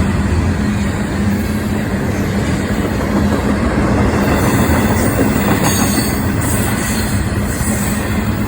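A train passing close by: a steady, loud rumble of wheels on the rails with a low hum, and some high-pitched wheel squeal in the second half.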